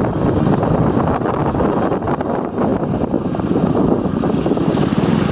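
Loud, steady wind buffeting the microphone, a dense rumbling rush with no clear pitch.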